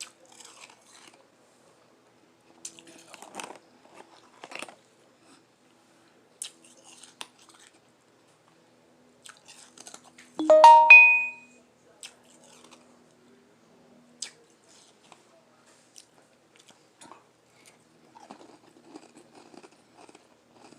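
Close-up chewing and soft crunching of lime-flavored ice, in scattered bites. About halfway through comes a brief, loud ringing clink.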